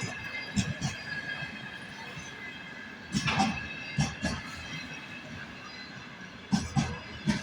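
Freight train wagons rolling past, their wheels knocking over rail joints in close pairs every second or few, over a steady high-pitched ring of wheel squeal.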